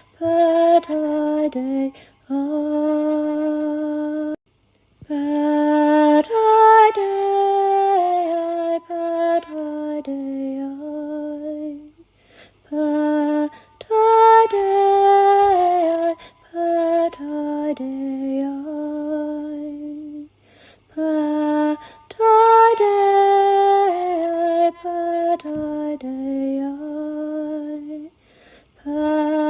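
Solo female voice singing a slow, wordless chant-like melody unaccompanied, holding long notes that step between pitches, with short pauses for breath.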